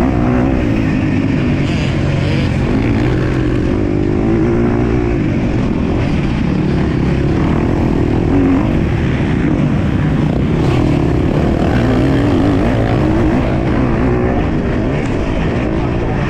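Motocross dirt bike engine revving up and down continuously as it is ridden hard around the race track, with the pitch rising and falling through the gears.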